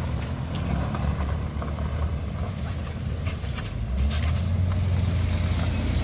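Heavy-vehicle engines running low and steady, growing louder about four seconds in.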